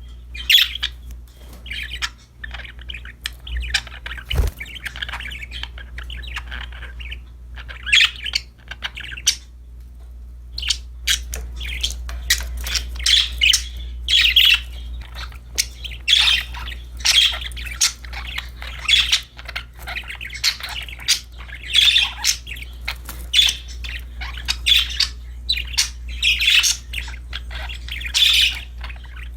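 Pet budgerigars chirping and squawking in quick, short calls, with a brief lull about a third of the way through and busier chirping after it. A steady low hum runs underneath.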